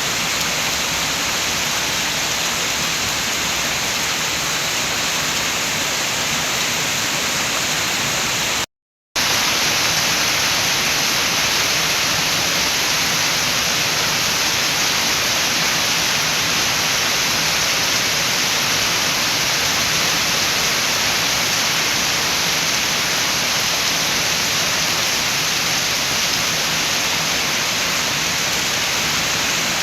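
Steady rain hiss, an even wash of falling rain with no separate drops or gusts standing out. About nine seconds in it cuts to silence for a split second, then comes back a little louder and brighter.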